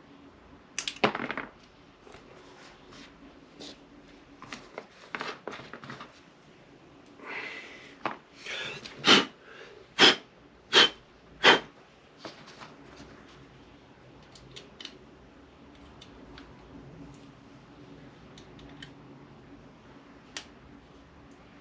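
Small metal tools and parts being handled on a workbench: scattered clicks and knocks, then four loud sharp clicks a little under a second apart about nine seconds in.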